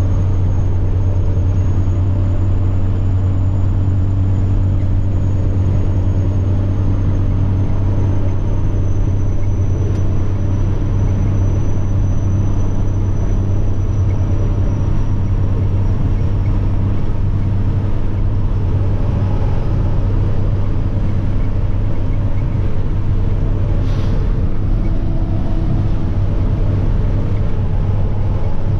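Semi-truck diesel engine running steadily while driving: a loud, low drone with a thin, high turbocharger whine above it that slowly falls in pitch. A single sharp click comes near the end.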